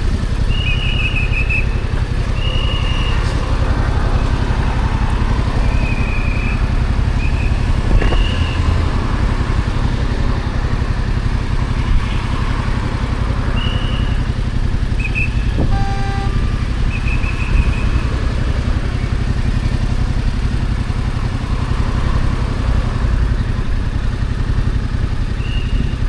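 Stock Yamaha XSR700's 689 cc parallel-twin engine running steadily under way, with no big revs. Short high chirps come and go over it, and a brief pitched tone sounds about halfway through.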